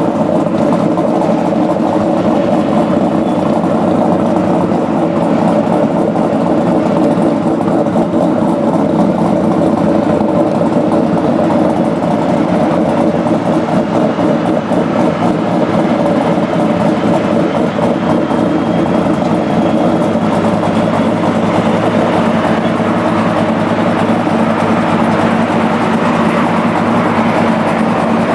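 A car engine idling steadily just after being started, loud and even with no revving.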